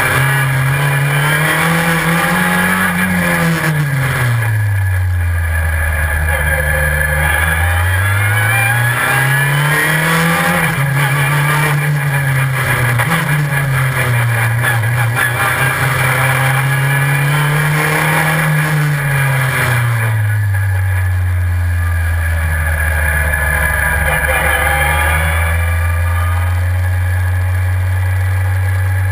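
Super FJ formula car's four-cylinder engine at full racing load. Its revs climb and fall again and again as the car accelerates, brakes and changes gear, with two long drops to a low pitch.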